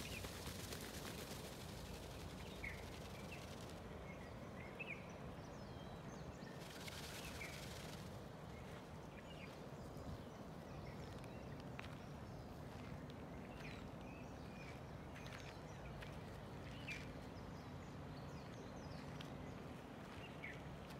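Faint outdoor ambience with scattered short chirps of small birds, and two spells of soft hiss in the first eight seconds.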